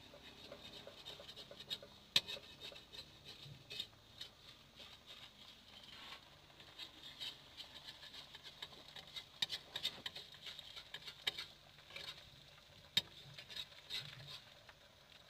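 Batter frying in hot oil in a wok, with faint irregular crackles and pops. A metal spatula clicks and scrapes against the pan now and then, sharpest about two seconds in and again near the end.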